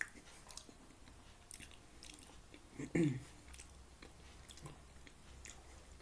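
A person chewing a mouthful of taco casserole close to the microphone, with wet mouth noises and scattered small clicks. A short hum-like vocal sound comes about three seconds in.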